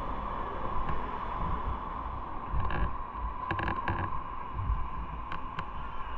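Motorcycle on the move: steady wind and road noise over a low engine drone, with a few short clicks about halfway through.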